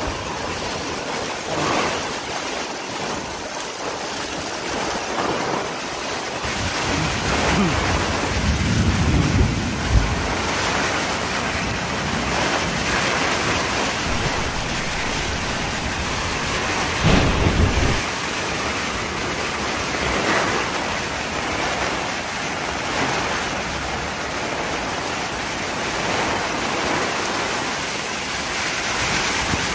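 Heavy tropical-storm rain pours steadily with wind. Louder low rumbles swell up about eight to ten seconds in and again around seventeen seconds.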